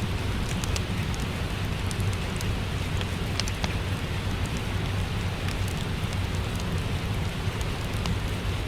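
Steady rain mixed with a crackling fireplace: an even hiss over a low rumble, dotted with small, sharp, irregular crackles.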